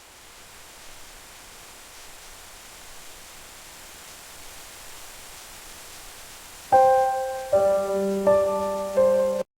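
A steady soft hiss, then about two-thirds of the way in a piano plays four chords, each struck and fading, before everything cuts off suddenly near the end.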